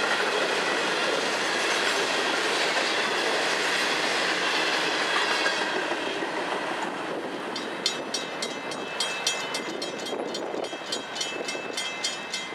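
Freight train hopper cars rolling past with steady wheel clatter on the rails, fading as the last car clears about halfway through. After that a grade-crossing warning bell is left ringing, a few strikes a second.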